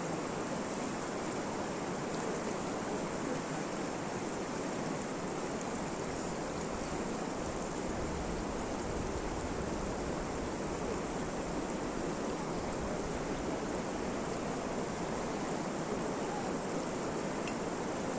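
Steady rain falling: an even rushing hiss with no breaks.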